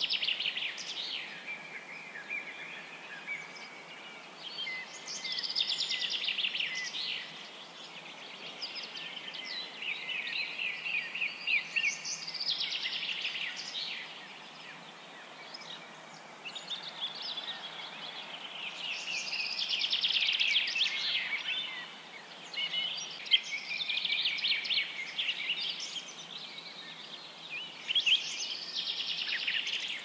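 Birds chirping in rapid, high-pitched trills, coming in bursts of a second or two with short lulls between.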